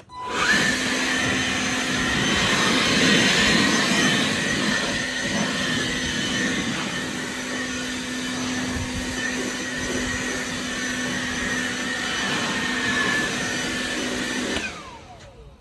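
Kobalt 40V battery-powered leaf blower spinning up with a rising whine, running steadily while blowing grass clippings off the mower, then spinning down near the end.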